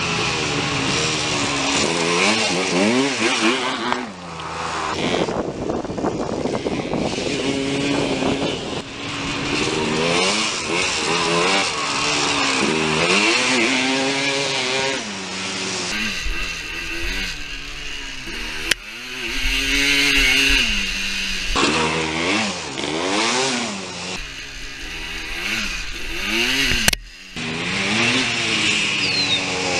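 A 1986 Honda TRX250R ATV's two-stroke single-cylinder engine running hard, its pitch sweeping up and dropping back again and again as it is revved. There are a few abrupt cuts, with a brief drop-out near the end.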